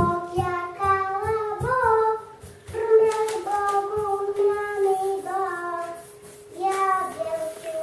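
A high voice singing slow, long held notes that glide between pitches, with no instruments behind it.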